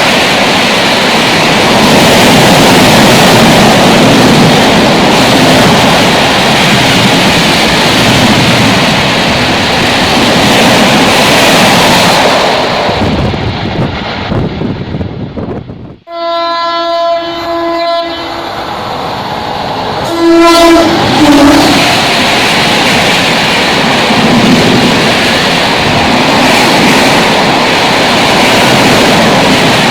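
Train running at speed, a loud steady rushing noise. About halfway through the noise drops away and a locomotive horn sounds a long blast of about two seconds, then a short one, before the running noise returns.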